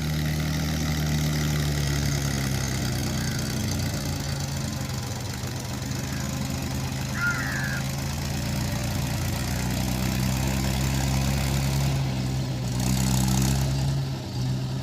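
Mahindra tractor's diesel engine running steadily at a constant, idle-like speed.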